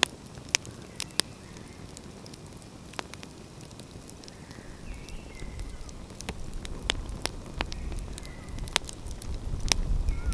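Wood fire crackling, with sharp pops scattered throughout. A low rumble builds in the second half.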